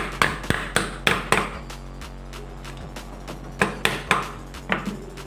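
A series of sharp knocks, about three a second for the first second and a half, then a few more near the end, over a steady low hum.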